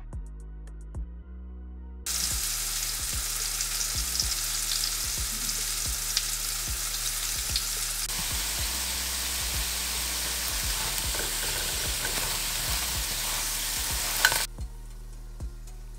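Background music with a steady beat for about two seconds, then food sizzling loudly in a frying pan: ground-meat picadillo, then gnocchi frying in butter, turned with a spatula. The sizzle cuts off suddenly near the end with a sharp click, leaving the music.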